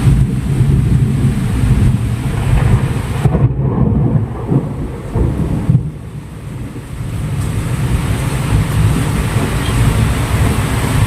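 Heavy rainstorm: rain hissing over a loud, continuous low rumble. The hiss thins out for a couple of seconds in the middle.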